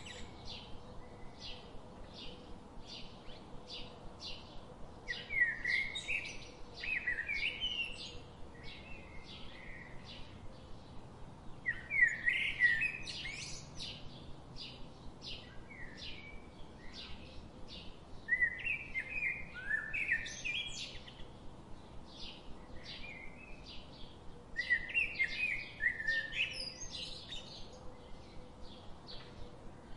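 Songbirds calling in the forest. A short high chirp repeats about twice a second throughout, and about every six seconds a louder burst of quick rising and falling warbling song comes in.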